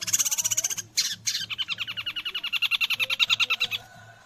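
Long-tailed shrike (cendet) singing a song filled with mimicked white-rumped shama (murai batu) phrases: a rapid high-pitched chattering run of notes, a short break about a second in, then a longer fast run of about ten notes a second that stops near the end.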